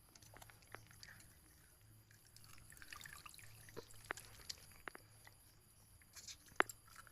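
Quiet eating sounds of chicken curry and rice: wet chewing and scattered small clicks, with one sharper click near the end.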